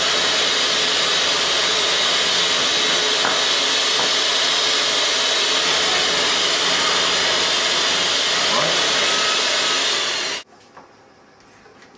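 A loud, steady rushing noise with no pitch, cutting off suddenly about ten seconds in.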